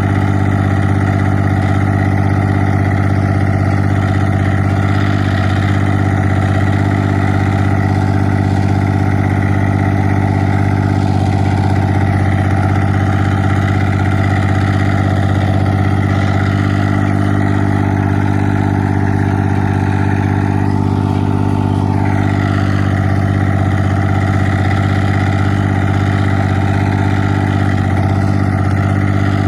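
Straight-piped 1984 John Deere 430 diesel engine running steadily through its open exhaust pipe.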